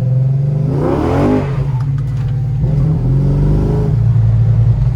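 Modified Chrysler SRT's V8 accelerating hard, its revs climbing twice, heard from inside the cabin over a steady low exhaust drone.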